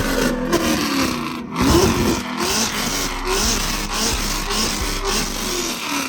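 Car engines revving, with their pitch repeatedly rising and falling, over a steady loud rushing noise.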